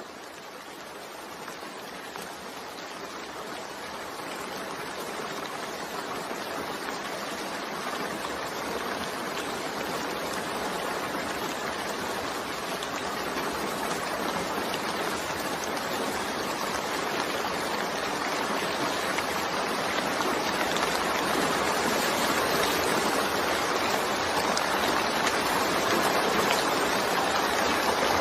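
Steady rain, an even hiss of falling water with no thunder, fading in and growing steadily louder.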